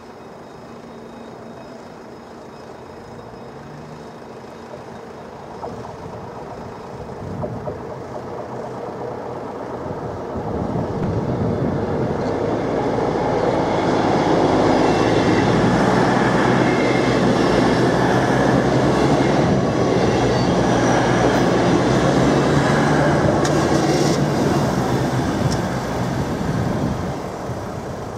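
NMBS passenger train passing over a level crossing. It grows louder from about ten seconds in, is loudest for about the next twelve seconds, and fades near the end.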